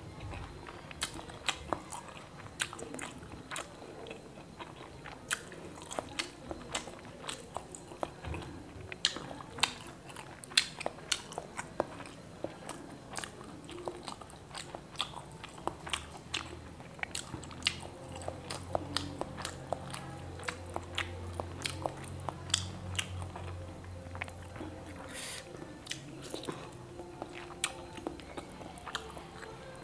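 A person chewing and biting pieces of fried egg close to a clip-on microphone, with frequent sharp, irregular wet mouth clicks.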